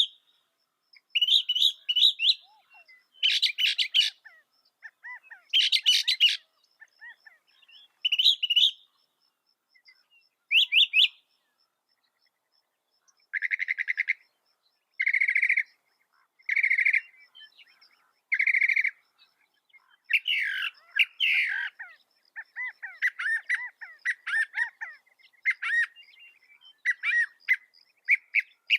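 Mockingbird singing: a string of varied phrases with short gaps between them, one phrase given four times in a row about halfway through, then quicker, busier phrases near the end.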